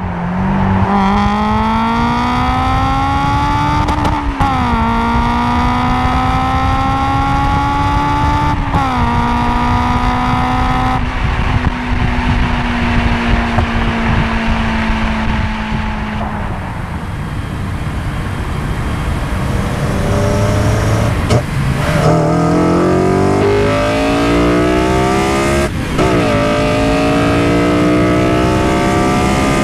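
Honda S2000's four-cylinder engine, with Mugen intake and Invidia Q300 exhaust, heard from inside the cabin at wide-open throttle: revs climb in pitch, drop at upshifts about four and nine seconds in, then hold steadier. It goes quieter for a few seconds, then pulls hard again from about twenty seconds in, with another upshift a little before the end.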